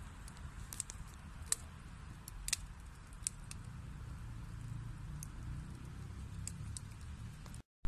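Wood fire burning in a fireplace: a steady low rumble of flames with sharp, irregular crackles and pops from the burning logs. The sound cuts out completely for a moment near the end.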